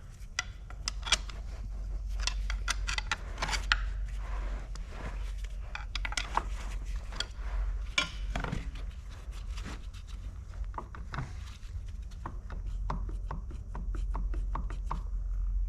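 Hand tools and metal engine parts clicking, tapping and scraping in quick irregular knocks as a stuck oil pump is worked at on a torn-down diesel engine, with a steady low hum underneath.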